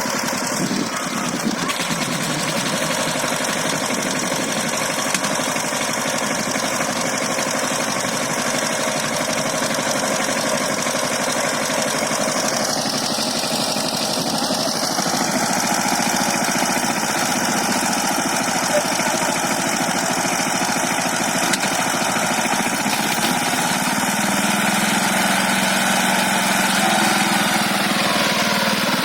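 Power tiller engine running steadily as it pulls a trolley loaded with paddy, its pitch shifting briefly about halfway through and again near the end.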